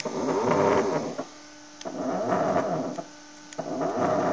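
A CNC stepper motor being jogged by hand, whining as its pitch rises and falls with each speed ramp. It stops twice briefly, leaving a lower steady hum, then runs on at a steady pitch near the end.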